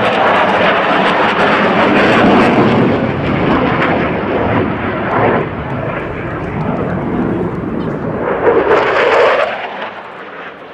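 Saab Gripen E fighter's F414 jet engine passing overhead, loud and steady, swelling once more near the end and then fading away.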